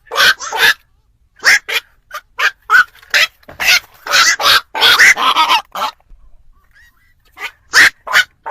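Black-crowned night heron calls: a rapid series of short, harsh croaks, with a gap of about a second and a half before the last few.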